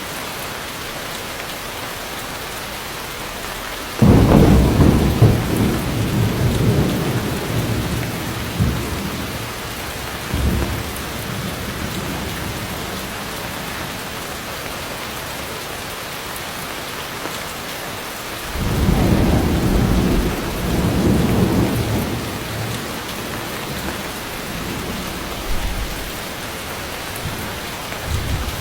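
Steady heavy rain hissing, with thunder: a sudden loud rumble about four seconds in that rolls off over several seconds, and another long rumble a little over halfway through.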